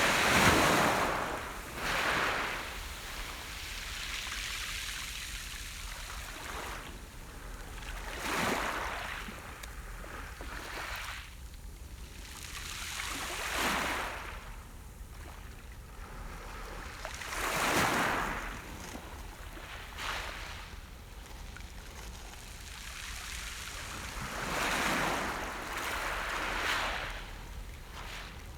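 Sea waves breaking on a shore, the surf swelling and ebbing in surges every few seconds, the loudest at the start.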